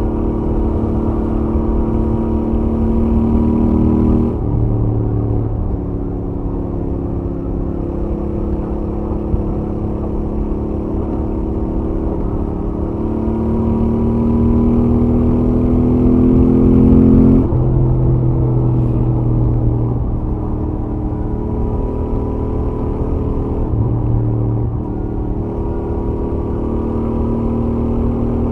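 Royal Enfield Interceptor 650's 648 cc parallel-twin engine on its stock exhaust, running at highway speed. The engine note climbs steadily in pitch as the bike accelerates, then drops sharply about four seconds in and again a little past halfway.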